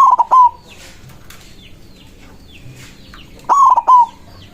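White zebra dove (perkutut) singing: two loud bursts of short, quick falling coo notes, one at the start and one about three and a half seconds in. Faint chirps of other small birds sound in between.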